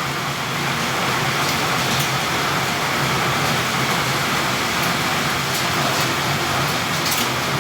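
Heavy rain mixed with hail: a steady rush of downpour with a few sharper ticks scattered through it.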